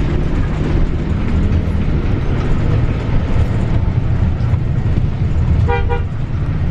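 Steady low rumble of a moving vehicle, with a faint low hum in the first couple of seconds and a brief burst of short high beeps near the end.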